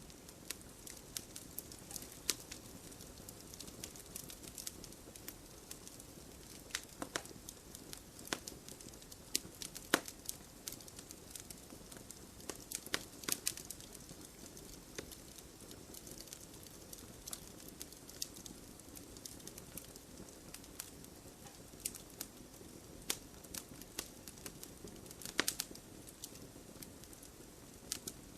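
Wood fire crackling, with irregular sharp pops and snaps of burning wood over the steady low rush of the flames. A few louder pops stand out, around ten seconds in, around thirteen seconds in and near the end.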